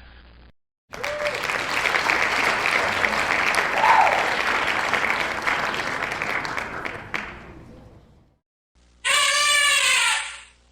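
Crowd applauding, a dense clatter of clapping that dies away over several seconds. Near the end, a short pitched sound of about a second, the start of the next sound effect.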